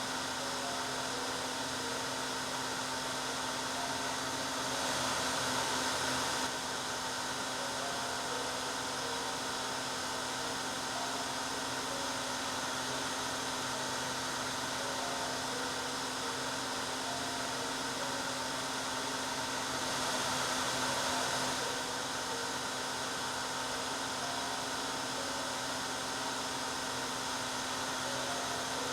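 Hair dryer running steadily: a constant rushing hiss of air with a low, steady motor hum underneath, swelling a little louder twice.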